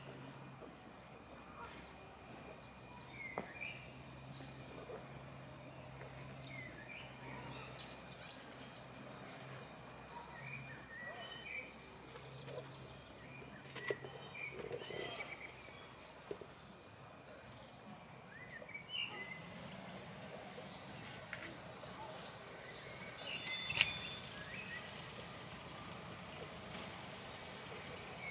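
Several small birds singing and chirping, in short scattered phrases throughout, over a faint steady low hum of outdoor background noise.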